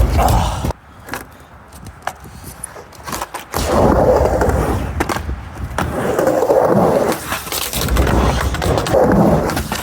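Skateboard urethane wheels rolling on a mini ramp, rumbling in swells with each pass. A quieter stretch from about one to three and a half seconds in holds a few sharp clicks and knocks of the board.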